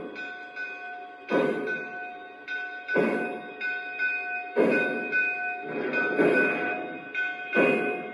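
O-scale model steam locomotive's sound system chuffing slowly, about one chuff every one and a half seconds, with steady ringing tones over it.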